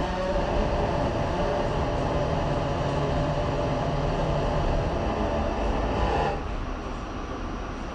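R68 subway train running on the rails, a steady rumble with a humming tone above it. About six seconds in, the hum stops and the sound drops to a quieter rumble.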